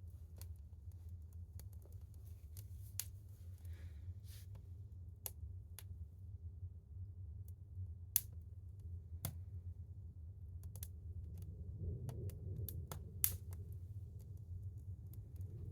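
Kindling fire crackling in a wood stove: irregular sharp pops and snaps over a low steady hum.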